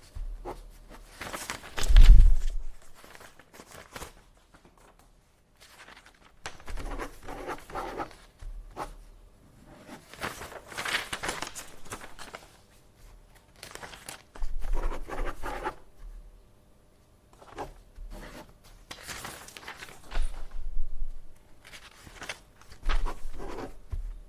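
Sheets of paper being handled and shuffled: a run of rustling, crinkling bursts a second or two long with short pauses between them. The loudest moment is about two seconds in, with a low thump.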